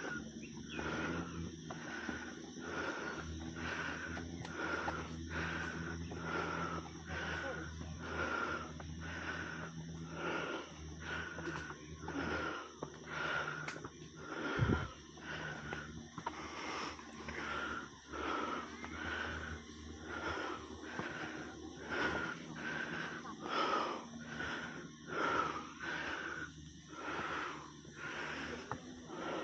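A person panting hard and evenly, about one and a half breaths a second, out of breath from climbing uphill. A single low thump comes about halfway through.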